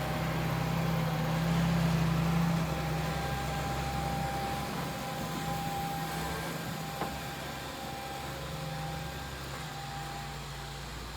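Tractor engine running steadily, heard from inside the cab: a low hum with a faint higher whine over it, a little louder in the first few seconds, and one light click about seven seconds in.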